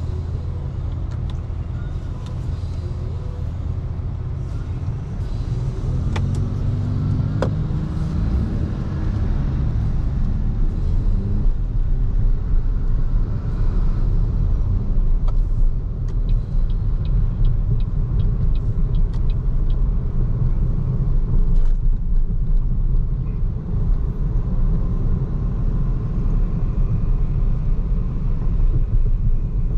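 Steady low road rumble and tyre noise of a BYD Seagull electric car driving, with no engine note. The rumble grows louder about ten seconds in, and there is a short run of light ticks around sixteen seconds in.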